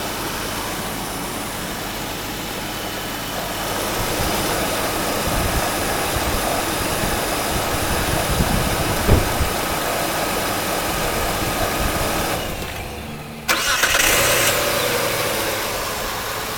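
A 2002 Hyundai Sonata's engine idles, with its radiator cooling fans running. About twelve seconds in it is switched off. About a second later it is started again, catching at once and settling back to idle.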